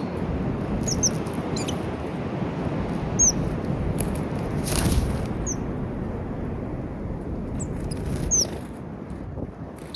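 Small wild birds giving short, high, downward-sliding chirps every couple of seconds over a steady low rushing background noise.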